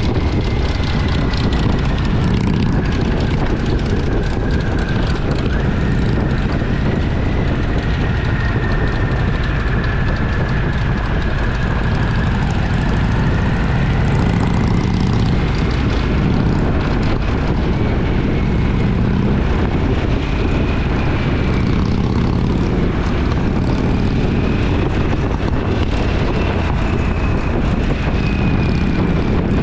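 Twin-cylinder motorcycle engine running steadily at cruising speed, heard from on the bike, with a thin whine that drifts slowly up and down in pitch.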